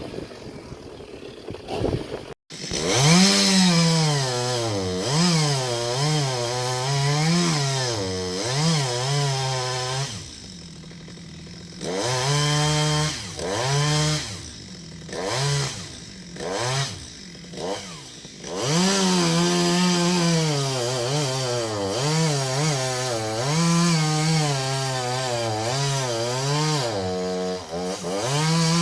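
Two-stroke chainsaw cutting wood, its engine speed rising and falling again and again as the chain bites into the cut. Midway it drops back to a lower pitch, with a few short revs, before running up again for the rest.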